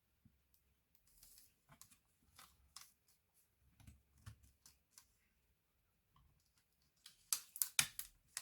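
Small clicks and taps of laptop parts and tools being handled, ending in a quick run of louder sharp clicks.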